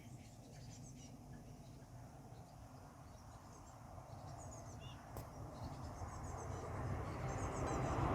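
Faint, thin high-pitched chirping from fledgling blue tits in a tree, in short clusters several times, over a low rushing noise that grows steadily louder toward the end.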